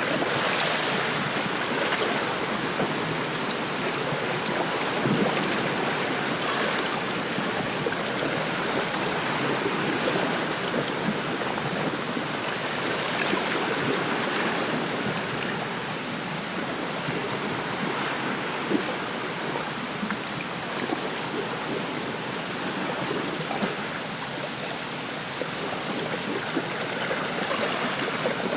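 Small waves lapping at the lakeshore while wind rustles through a reed bed, a steady rushing that swells and eases gently.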